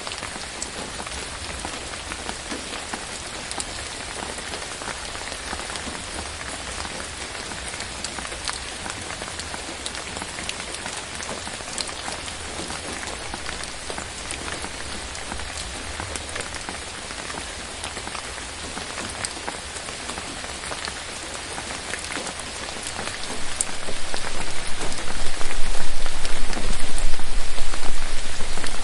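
Steady rain falling on forest foliage: a dense, even hiss with scattered sharp ticks of single drops. About 23 seconds in, a much louder low rumble sets in and carries on.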